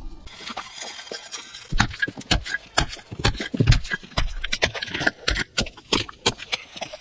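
Irregular sharp knocks and clicks with some scraping, hand tools at work on tile, stone or mortar, coming quicker from about two seconds in.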